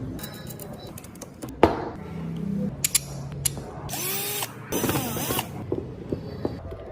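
Workshop tool sounds from wood carving: a run of sharp clicks and knocks, the loudest about one and a half seconds in, with two short bursts of hissing noise about four and five seconds in.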